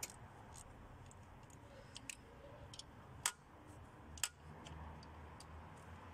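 Sparse, irregular small clicks and taps of hand work on the engine while a new ignition coil is fitted and fastened, the loudest two about three and four seconds in.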